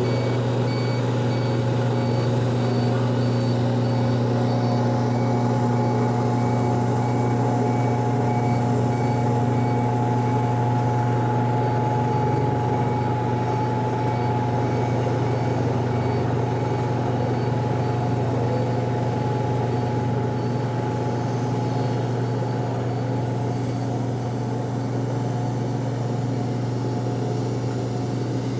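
Dump truck engine running steadily under a reversing alarm that beeps repeatedly, the beeping stopping about two-thirds of the way through while the engine keeps running.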